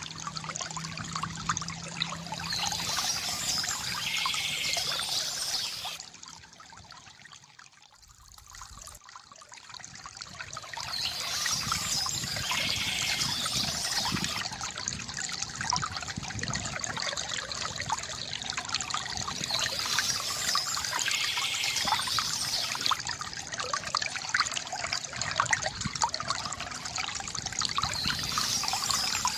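Water trickling and splashing steadily from a bamboo fountain spout, fading to a quieter dribble for a few seconds about a quarter of the way through before running at full flow again.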